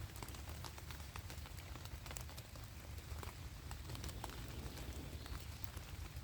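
Raindrops falling in a forest, many separate light ticks and taps at irregular intervals over a low rumble.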